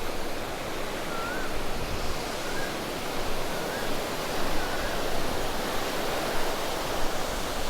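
Rough sea surf breaking and washing up on a beach, a steady rushing noise, with a few faint short chirps over it about once a second.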